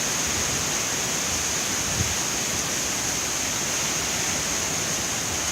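Hurricane-force wind blowing in a steady, dense rush, with one faint knock about two seconds in.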